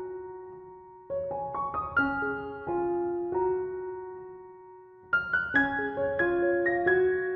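Background piano music: soft phrases of struck notes that ring and fade, with a new phrase beginning about five seconds in.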